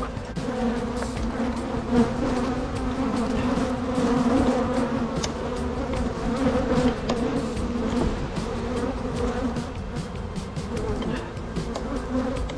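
Honeybees buzzing in a dense swarm around an open hive: a steady hum with scattered light clicks. The colony is agitated after being opened, described as "the bees are pissed."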